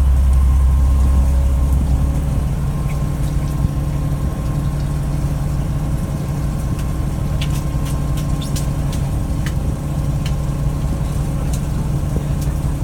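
Steady drone of a fishing boat's diesel engine running. The deepest part eases off about two seconds in. A few sharp clicks come in the second half.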